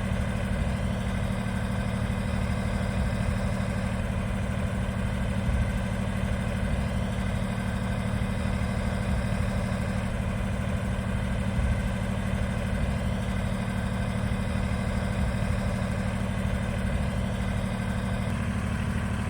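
Kubota B-series compact tractor's diesel engine running at a steady speed, a constant low rumble.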